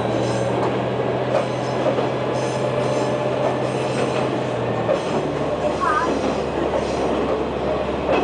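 KiHa 120 diesel railcar running along the line, heard from inside the car: a steady low diesel engine note over wheel and rail rumble. The engine note drops away about five seconds in while the running noise carries on.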